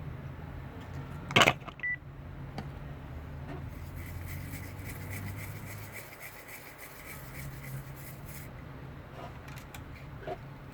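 A sharp click, then a short high electronic beep, followed by a few seconds of faint rapid ticking with a thin high tone, over a low steady hum.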